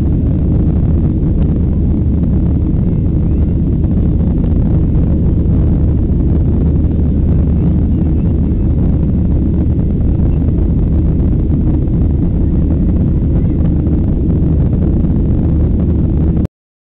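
Steady, loud low roar of a Boeing 737-800's CFM56 jet engines and rushing air, as heard in the cabin while the airliner climbs after takeoff. It cuts off abruptly near the end.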